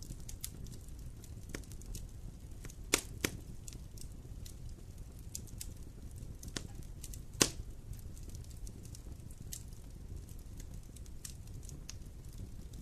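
Campfire burning: the wood crackles with scattered sharp snaps over a low steady rumble, with two louder pops close together about three seconds in and another about seven seconds in.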